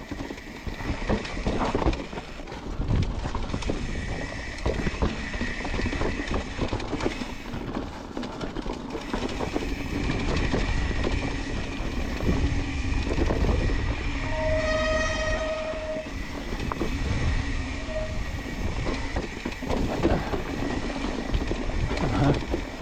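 A mountain bike rolling fast over rough, wet trail: a steady rumble of tyres and frame with rattles and knocks from bumps. About two-thirds of the way in, a disc brake squeals for about a second and a half, and briefly again a few seconds later.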